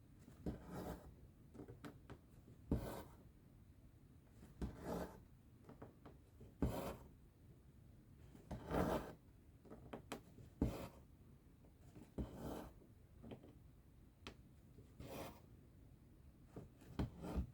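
Cross-stitch thread pulled through the fabric in repeated short rasping pulls, about one every two seconds, with a few sharp clicks between them.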